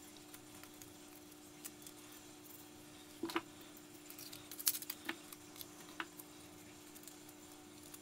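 Faint handling sounds of masking tape being pulled, torn and pressed onto a multiplier fishing reel's frame: scattered crackles and clicks, busiest between about three and six seconds in, over a steady low hum.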